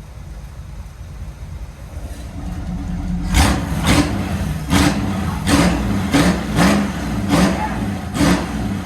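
1951 Chevrolet Styleline's engine running through open electric exhaust cutouts: a low idle rumble, then from about three seconds in a quick string of throttle blips, roughly one every three-quarters of a second.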